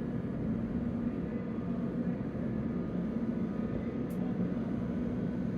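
Steady low rumble and hum of a cruise ship under way, its machinery running as it turns to leave port, with a brief faint hiss about four seconds in.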